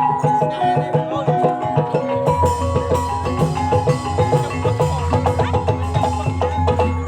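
Banyumasan gamelan music: tuned mallet percussion plays fast interlocking melodic lines over hand-drum strokes. A low steady tone joins a little over two seconds in.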